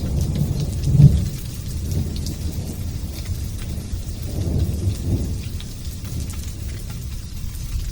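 Thunder rumbling over light rain: a loud rumble about a second in, a second swell a few seconds later, then dying away as the rain patters on.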